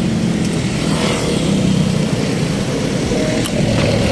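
Steady road traffic, with motor vehicles running close by.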